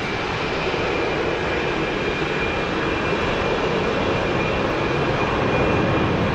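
Jet aircraft engine noise: a steady, loud rushing sound with a thin high whine running through it, even throughout with no rhythmic beat.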